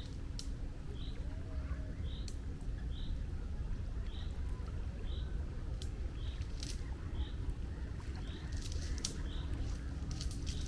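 Seaside ambience: a steady low rush of wind and water, with a small bird repeating a short high chirp a little under once a second and a few sharp splash-like clicks.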